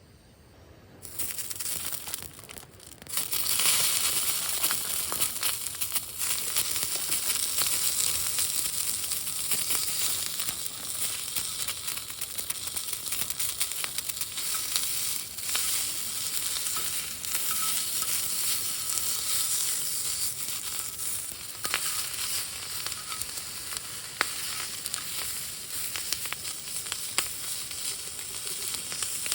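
Food frying in a pan, sizzling steadily with small crackles. The sizzle starts about a second in, drops briefly, then holds steady from about three seconds in.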